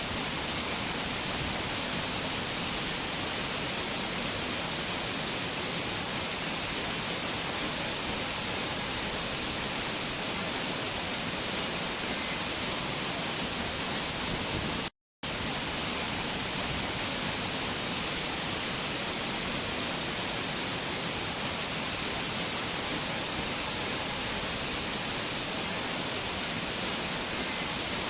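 Steady rushing of a waterfall, an even wash of falling water, cut by a brief total silence about halfway through.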